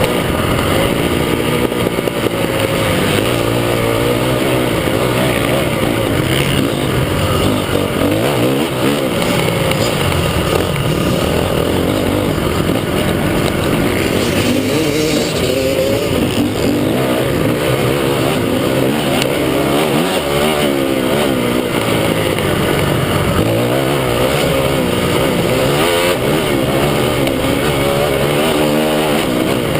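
Several motocross bikes' engines revving up and down as they ride the track, their pitches rising and falling over one another, loud and continuous.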